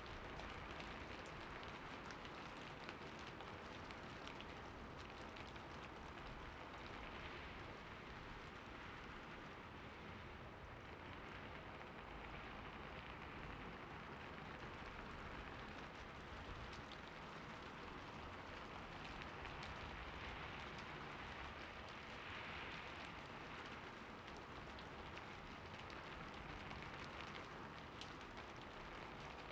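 Steady, soft rain falling, an even hiss with scattered drop patter.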